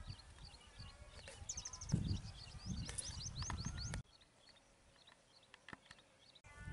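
Small birds chirping and calling, with a few sharp knife taps on a plastic tray as tomatoes are cut. A low rumble under the first half stops suddenly about four seconds in.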